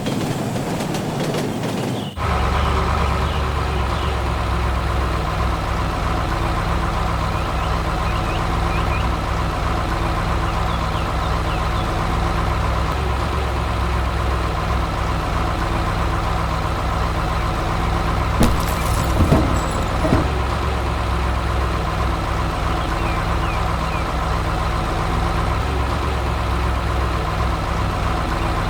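A heavy vehicle's engine running at a steady hum. It starts abruptly about two seconds in, cutting off a rattling noise. A few brief clicks come near the two-thirds mark.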